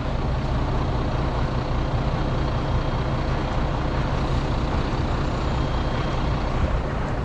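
Heavy recovery truck's diesel engine running steadily while driving the hydraulic boom to lift a stranded truck, with a constant low hum.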